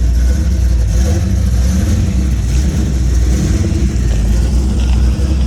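A car engine running steadily at a low, even pitch, close by.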